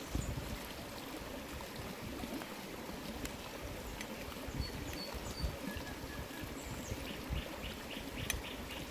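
Water running or trickling steadily, with a few sharp clicks and some short high chirps in the second half.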